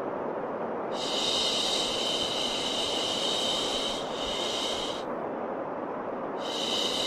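A steady white-noise hiss with long shushing 'shhh' sounds laid over it, repeating every few seconds and each lasting one to three seconds, the kind of shushing used to soothe a colicky baby.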